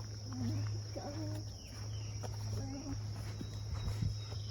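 A steady, high insect drone, with a few footstep clicks and faint, short bits of voices.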